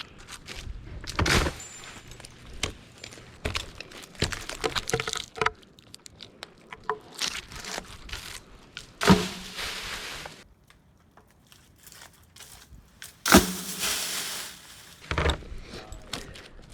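Wood breaking with sharp pops and snaps, the loudest about nine and thirteen seconds in, with rustling and crunching of branches between.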